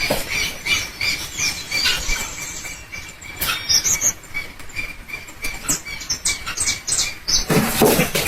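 Many small animals squeaking in short, high chirps, with rustling and scratching that grows louder near the end.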